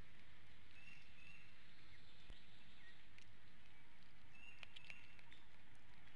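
Steady outdoor background hiss with short, high bird chirps about a second in and again near five seconds, and a few faint clicks.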